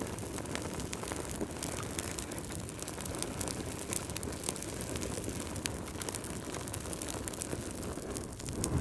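Wood fire crackling: a steady low rumble of flames with many small irregular pops and snaps, and a brief louder whoosh of flame near the end.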